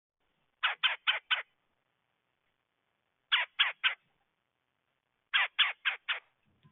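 Red-bellied woodpecker giving harsh calls in three quick series: four notes, then three, then four, with pauses of about two seconds between them.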